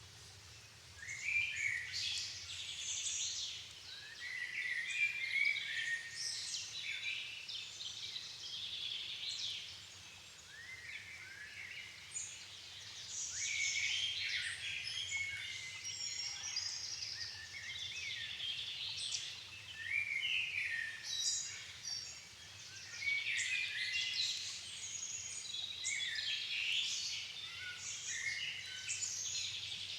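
Dusk chorus of many songbirds singing at once in a floodplain forest. Short, overlapping phrases and chirps follow one another without a break.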